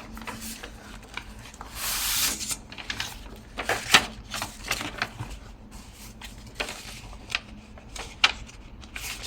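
Paper and craft supplies being handled: rustling with scattered light clicks and taps, including a longer rustle about two seconds in and a few sharper clicks later.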